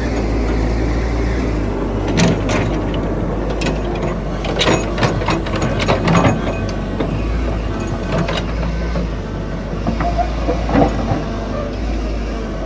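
Heavy diesel earth-moving machinery running with a steady low rumble, with irregular sharp metallic clanks of steel track links, clustered about halfway through and once more near the end.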